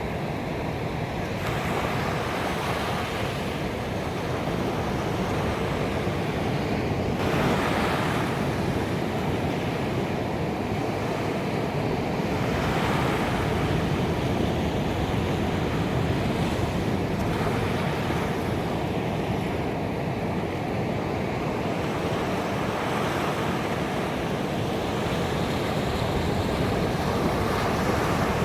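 Ocean surf breaking on a beach: a continuous wash of water, with a wave crashing and rushing in about every five to six seconds.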